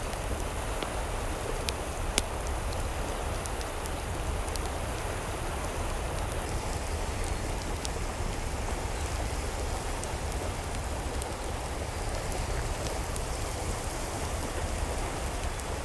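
Steady hiss of water, rain or running water, with scattered small ticks through it.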